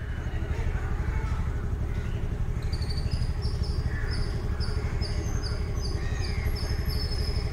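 A steady low rumble of outdoor background noise. About three seconds in, a bird in the trees starts a regular series of short, high chirps, about two a second.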